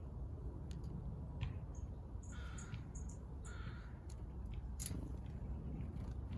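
A crow cawing twice, two harsh calls about a second apart, with a few faint clicks around them.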